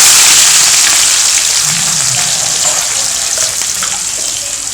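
Onions dropped into hot cooking oil in a pan, sizzling loudly at first and then slowly settling to a gentler sizzle.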